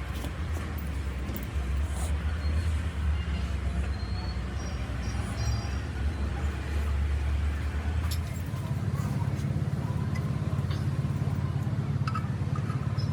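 A motor engine running steadily, its low hum stepping up in pitch about two-thirds of the way through.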